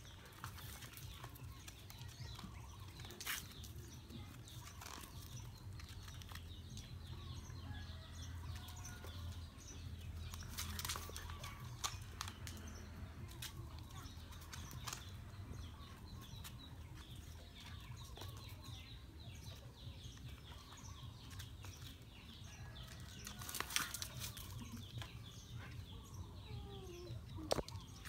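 Outdoor yard ambience: birds chirping and chickens clucking over a low steady rumble, with a few brief knocks or scuffs, the loudest near the end.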